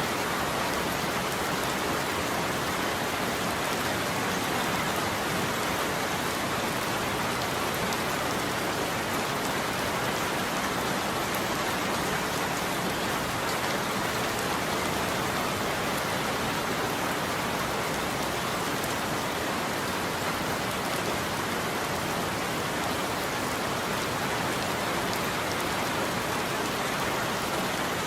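Steady heavy rain falling on a surface, an even hiss with no thunder and no change in level.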